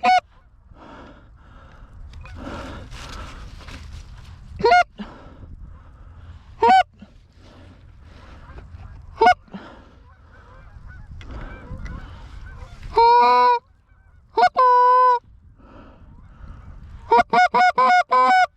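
Goose honks: single short honks every two to three seconds, then two longer drawn-out calls about thirteen and fourteen seconds in, and a quick run of about six honks near the end, over a steady low rush of wind.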